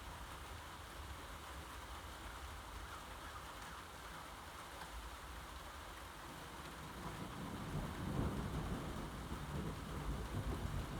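Steady rain falling, with a low rumble of thunder that builds about seven seconds in and is loudest a second later.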